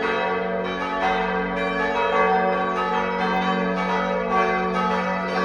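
Several church bells pealing together, strikes overlapping continuously over a sustained ringing hum. This is the Sunday peal calling people to the service.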